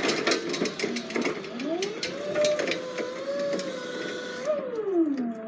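A motor whine that rises in pitch, holds for about three seconds, then winds back down near the end, after a short spell of mechanical clicking and clattering.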